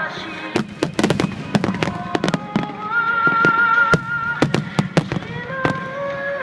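Fireworks shells bursting in rapid succession, with many sharp bangs and crackles, over music with long held notes.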